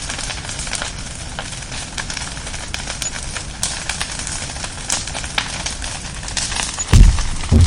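Wood bonfire crackling, with frequent sharp pops and snaps over a steady hiss. Near the end come two low thumps close together, the loudest sounds here.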